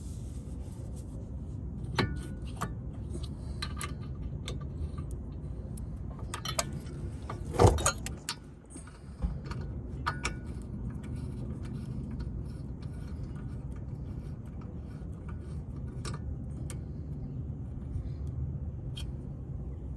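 Scattered light metallic clicks and clinks of tools and parts being handled during brake work, with one loud knock about eight seconds in, over a steady low rumble.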